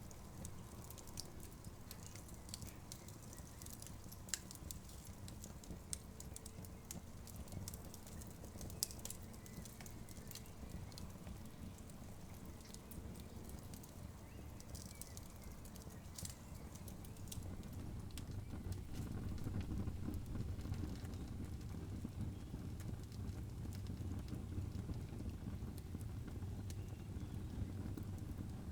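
Campfire crackling, with scattered sharp pops and snaps over a low steady rumble; the rumble grows louder about two-thirds of the way through.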